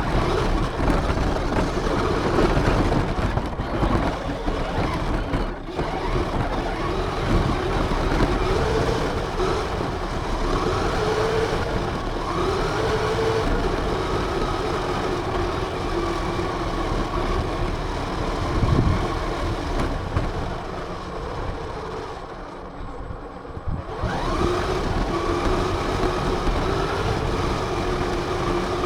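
RC car's motor running as it drives, its pitch rising and falling with the throttle over steady driving noise. It eases off briefly about three-quarters of the way through, then picks up again.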